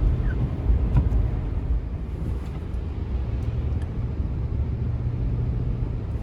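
Car driving: a steady low rumble of engine and road noise, with a faint click about a second in.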